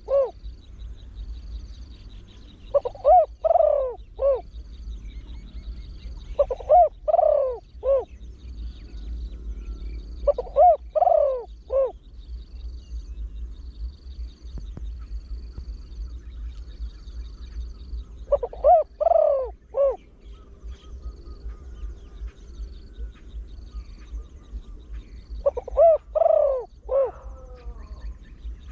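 Spotted dove cooing in its deep-voiced song, five phrases of several swooping coos each, spaced several seconds apart.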